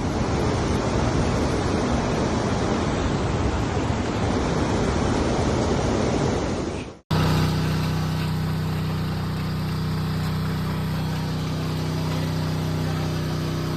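Loud, even rushing of floodwater that cuts off abruptly about seven seconds in. A different recording follows: a steady motor hum over the noise of water.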